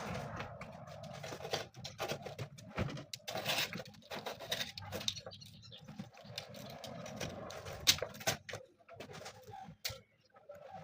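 Irregular clicks and knocks of hand tools at work on a bergère armchair being re-upholstered, with one sharp knock about eight seconds in.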